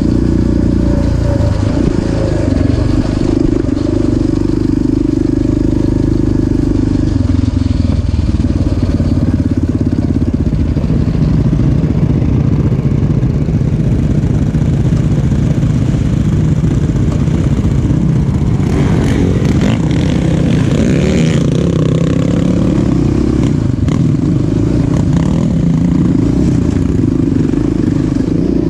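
Off-road motocross vehicle engine running loud and revving, its pitch rising and dropping repeatedly, with a short burst of rushing noise about two-thirds of the way through.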